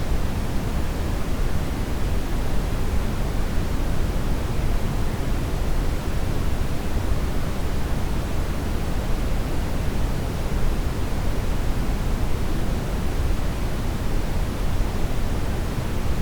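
Steady brown noise: an even, deep rushing hiss, strongest in the low end and unchanging throughout.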